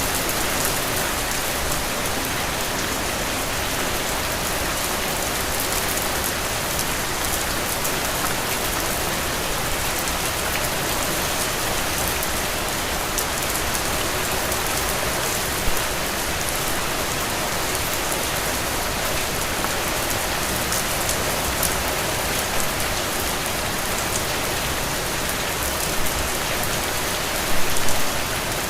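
Steady rain falling and pattering on a surface, with fine drop ticks throughout and a few slightly louder splashes about 16 s in and near the end.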